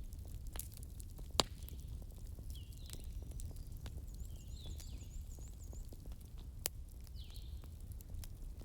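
Wood fire crackling in a fireplace: scattered sharp pops, the loudest about a second and a half in and again near the end, over a steady low rumble. Faint high chirps recur throughout.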